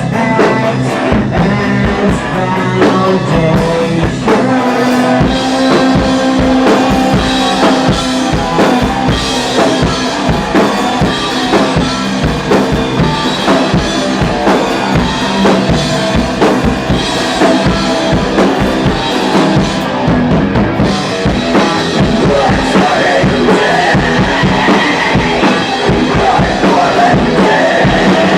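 Rock band playing loud and continuously, with a full drum kit (kick, snare and rimshots) driving under guitars.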